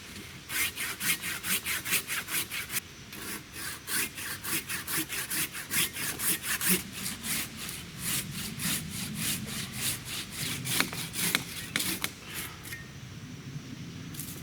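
Hand pruning saw cutting through a log in quick back-and-forth strokes, about three a second, stopping near the end.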